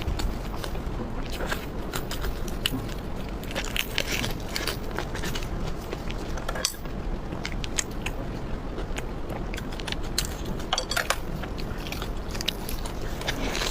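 Close-miked eating: a person biting and chewing food, with frequent short, wet clicks and crackles in an irregular rhythm.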